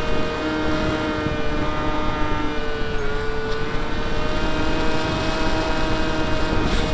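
Skyartec Skyfun's brushless electric motor and 7x6 propeller whining steadily at flight power, picked up by an onboard keychain camera, with the pitch dipping briefly about three seconds in. Wind buffets the microphone throughout.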